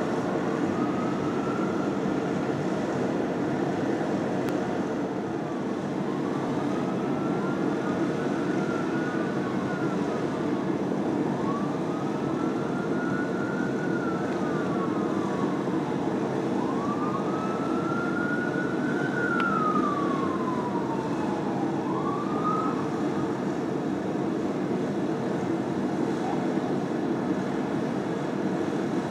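Fire engine sirens wailing in slow rises and falls of pitch, at times overlapping, that stop about three-quarters of the way through, over a steady rumble of engines and traffic.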